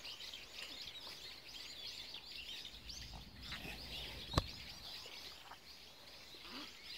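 A flock of small birds chirping and twittering, many short high calls overlapping without pause. A single sharp click sounds a little past halfway.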